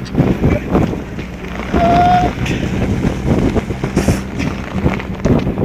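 A towing car's engine runs steadily under rough wind noise buffeting the microphone as the rope-towed sled slides over snow. A short high tone sounds briefly about two seconds in.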